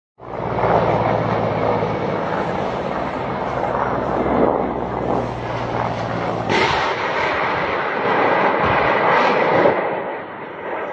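Mi-24 attack helicopters flying low, a loud steady engine and rotor noise with a low hum under it; about six and a half seconds in the hum gives way to a sudden louder rushing sound.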